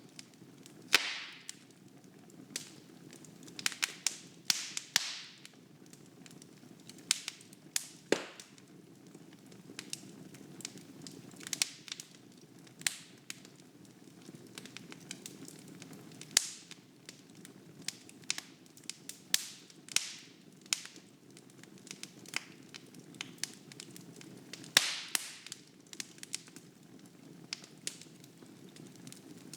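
Wood fire burning in a fireplace: irregular sharp crackles and pops from the burning logs, some with a brief hiss, over a faint steady rush of flame.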